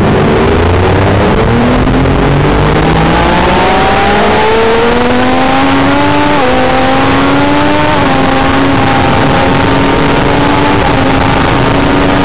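Triumph Daytona 675's three-cylinder engine at full throttle on a racetrack, heard on board: the revs climb hard out of a corner, drop at upshifts about six and a half and eight seconds in, then hold nearly steady at high revs. Wind rush rises with the speed.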